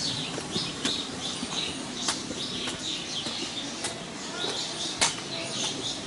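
Small birds chirping in tropical forest: many short, high chirps repeating. A few sharp taps cut through, the loudest about five seconds in.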